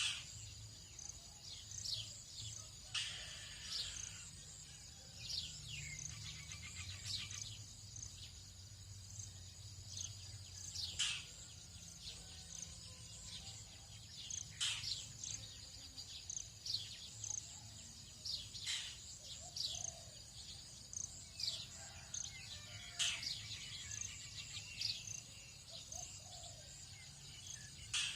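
Tropical dawn chorus: many birds giving short, high whistles that sweep down in pitch, one every second or two, over a steady high-pitched insect drone. A rapid ticking trill comes in twice, and a faint low hum runs underneath.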